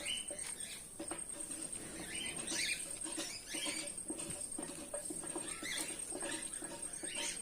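Small finches twittering in short bursts of high, quick notes every second or two, over light scratching and pattering.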